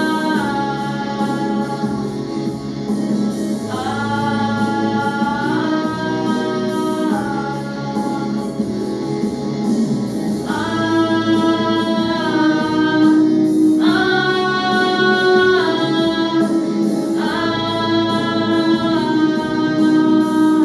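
School vocal ensemble singing with a backing track, holding long sustained notes in the closing bars of a song.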